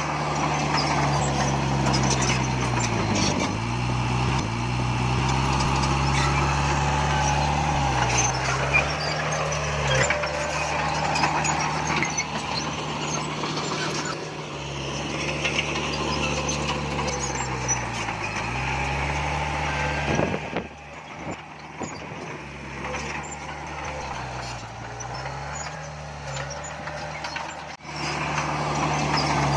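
Large diesel engine of heavy earthmoving machinery running hard. Its pitch sags briefly several times as it takes load, over scattered metallic clanks.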